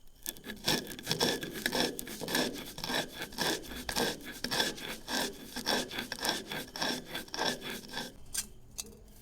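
A kitchen knife sawing back and forth through lemon on a cutting board, in rapid rasping strokes about three a second that stop near the end.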